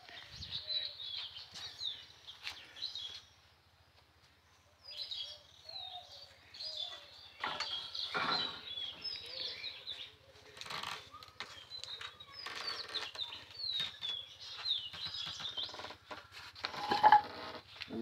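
Small birds chirping, many short high calls in quick succession, with a quiet break about three seconds in. Brief rustling or handling noises come in between, and a short, louder sound near the end.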